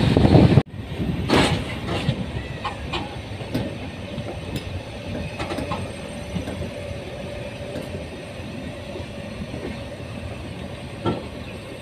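Passenger train running on the rails: a loud rush cuts off abruptly just under a second in, leaving quieter rolling noise with wheels clicking over rail joints roughly once a second. A faint steady whine sits under it for a while midway.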